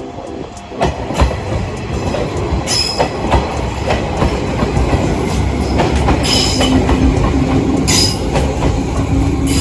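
Train on the Izuhakone Railway running past, its wheels knocking over rail joints, growing louder. Brief high-pitched squeals come four times, and a steady low hum sets in about six seconds in.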